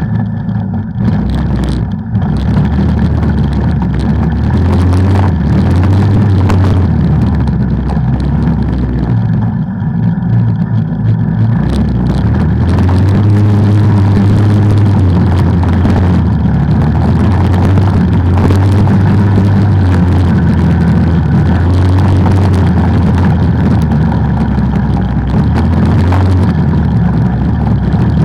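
An off-road ATV engine running continuously while riding, its low note rising and falling slightly.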